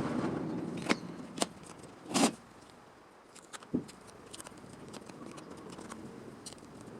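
Workshop handling sounds: a short rustle, then four sharp knocks and clicks, the loudest about two seconds in, followed by faint scattered ticks.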